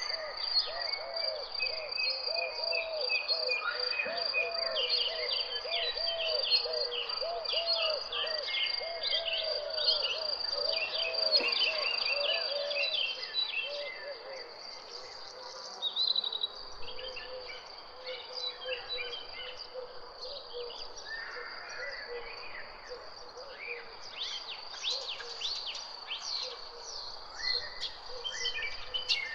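Several birds chirping and singing over a steady, high-pitched insect trill. A lower call repeats rapidly through the first half, then fades, and the whole scene gets quieter about halfway through.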